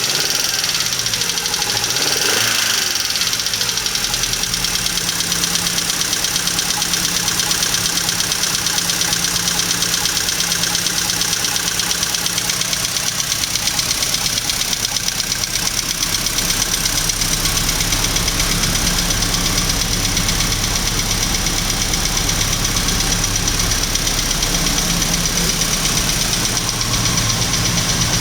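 BMW 320Si's four-cylinder petrol engine idling steadily after a cold start, with a faulty engine that the seller says needs attention.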